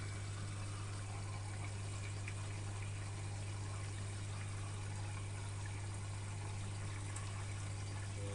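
Electrolux EWS 1045 washing machine with a steady rush of water over a constant low hum.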